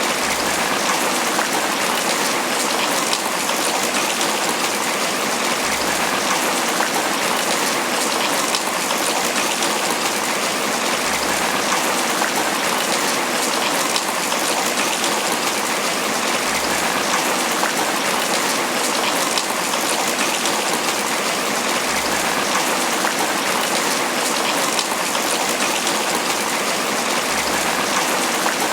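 Steady, heavy tropical rain pattering on banana leaves, with a dense spatter of individual drops.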